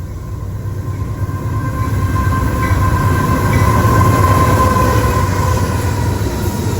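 Train passing at speed: a low rumble that swells to its loudest about four seconds in and then eases off, with a faint steady whine above it.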